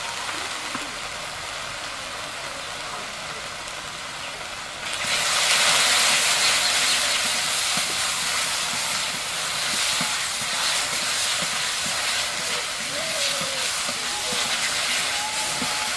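Wet spice paste sizzling in hot mustard oil in a wok while a flat metal spatula stirs it, the paste being fried down. The sizzling grows noticeably louder about five seconds in.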